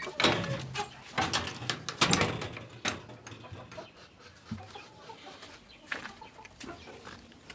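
Kienyeji (free-range village) chickens clucking, busier and louder in the first few seconds, then fainter and more scattered.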